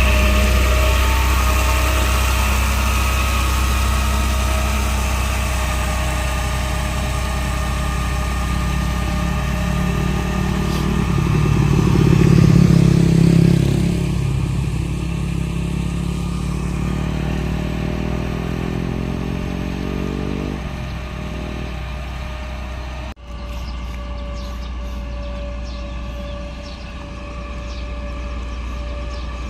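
Truck diesel engine running steadily, swelling about a third of the way in, then rising in pitch for several seconds as it speeds up. The sound drops out abruptly for an instant about three-quarters through, then the steady engine note carries on.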